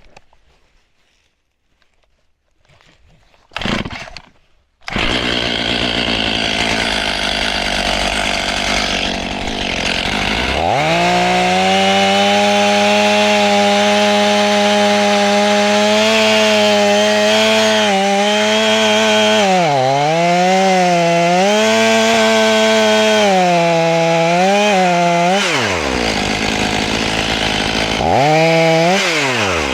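Two-stroke chainsaw starting up about four seconds in and cutting into a tamarack trunk. The engine is held at high revs, and its pitch sags and recovers several times as the chain bites into the wood. It drops off near the end, revs up once more, and falls again.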